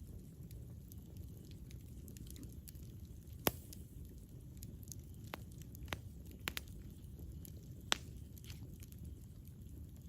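Campfire burning: a steady low rumble under scattered faint crackles, with a sharp pop about three and a half seconds in and a few more in the middle.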